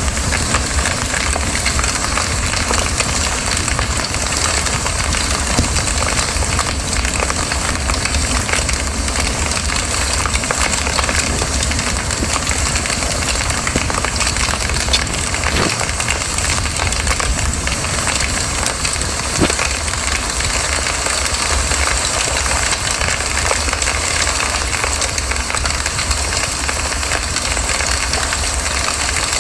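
Campfire burning: a steady rushing of flames with continuous crackling from the burning wood, and a few sharper pops about 6, 15 and 19 seconds in.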